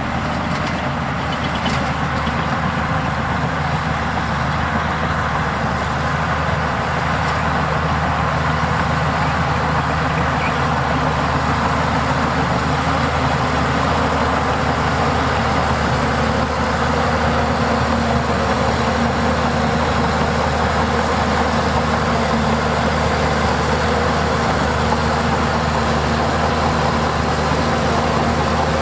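Heavy earthmoving machinery's diesel engines running steadily under a constant load, with no revving or pauses.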